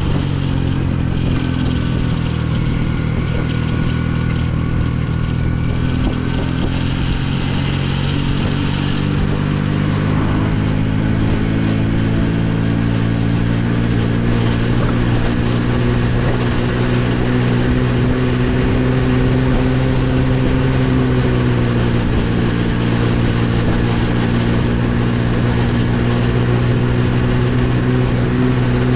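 Motorcycle engine running at a steady cruise, its pitch holding fairly level with small rises and dips, over a constant rush of wind noise.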